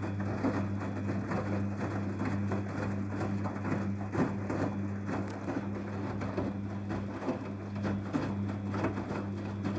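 Daewoo DWD-FT1013 washing machine running an air bubble wash: a steady low hum under a constant irregular crackle and patter of water and bubbles.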